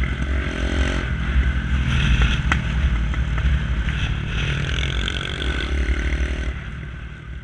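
Lexmoto ZSX 125's single-cylinder engine through a straight-pipe exhaust, running and revving in rising sweeps, with one sharp crack about two and a half seconds in. The sound fades away near the end.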